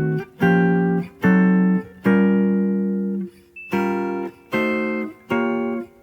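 Guitar playing a sequence of six plucked chords, drop-2 voicings of B-flat minor 6 and diminished shapes, each struck and left to ring briefly; the third chord rings longest before a short pause.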